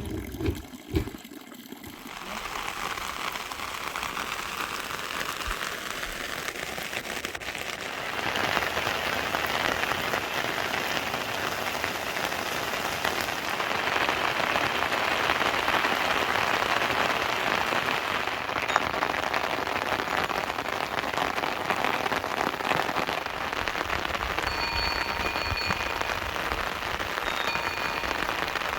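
Steady rain falling, growing heavier about eight seconds in. A few faint high-pitched tones sound near the end.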